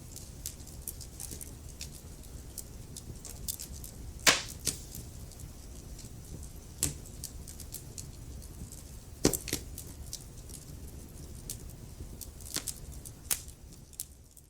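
Wood fire burning in a fireplace: irregular sharp crackles and pops over a low, steady rumble of the flames, with the loudest pops about four seconds in and about nine seconds in. The sound begins to fade away just at the end.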